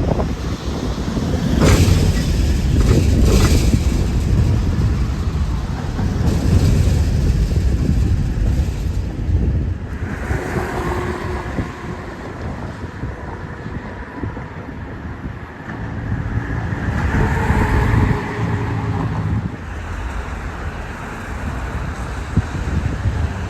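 Wind rumbling on the microphone over city street traffic noise, with a louder swell like a passing vehicle near the end.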